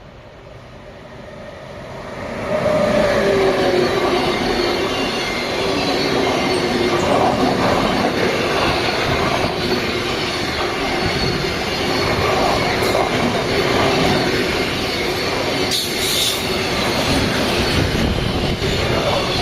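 A train arrives about two seconds in and passes close by, its wheels running loudly on the rails with thin, high squealing tones over the rolling noise.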